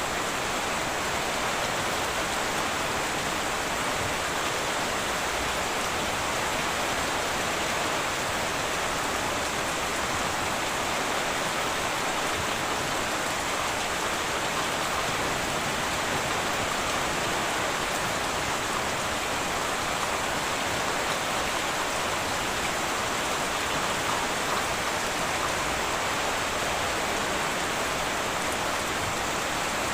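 Heavy rain falling steadily on a tin roof, a constant even hiss with no thunder.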